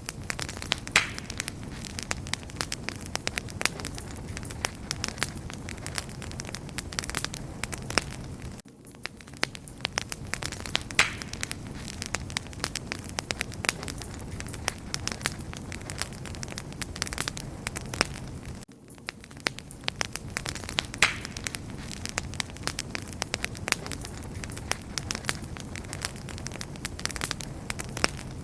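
Wood fire burning with steady crackling and frequent sharp pops over a low hiss of flames. The same ten-second stretch repeats about every ten seconds, with a brief dip in loudness at each join.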